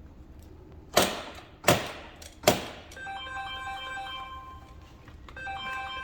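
Three sharp knocks, about two thirds of a second apart, from a puller being struck to free a seized diesel injector from an Audi SQ5 engine. After them comes a short melody of steady electronic tones.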